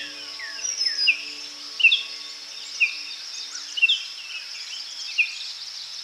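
Small birds chirping, short falling chirps about once a second, over a steady high-pitched drone.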